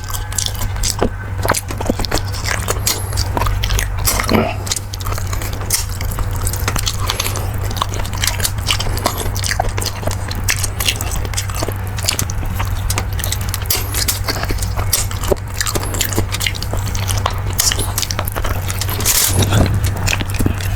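Close-miked eating sounds: a person chewing and biting into beef bulalo, with many short wet mouth clicks and smacks throughout, over a steady low hum.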